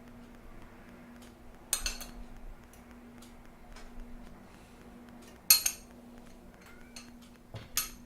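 A metal spoon clinking against cookware three times, each clink ringing briefly, with lighter taps between them and a faint steady hum underneath.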